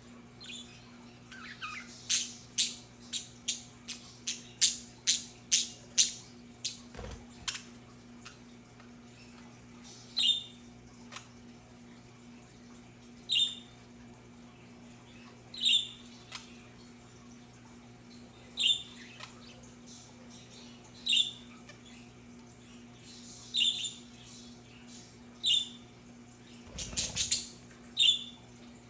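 Budgerigars calling: a quick run of sharp chirps in the first few seconds, then single squawky chirps every two to three seconds, with a short flurry near the end. A steady low hum runs underneath.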